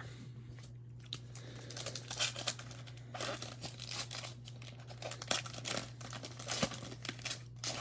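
A plastic trading-card pack wrapper being torn open and crinkled by hand, a dense irregular crackling that picks up about a second and a half in. A low steady electrical hum runs underneath.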